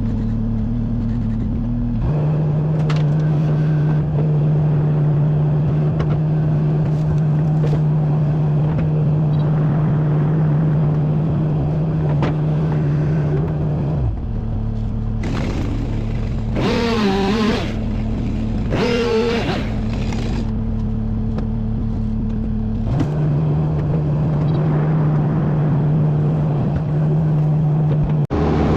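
Wood chipper's engine running steadily. Its pitch drops about two seconds in, rises again around fourteen seconds, and drops again near the end, with loud rough grinding bursts of wood being chipped in between.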